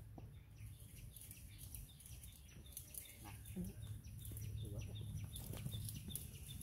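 A bird chirping faintly and repeatedly, about three to four short high chirps a second, starting a couple of seconds in. A brief low call sounds a little past halfway.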